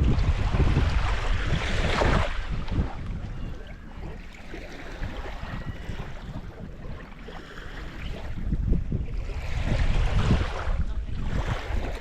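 Wind buffeting the microphone over the wash of water, stronger in the first couple of seconds and again from about eight to eleven seconds in.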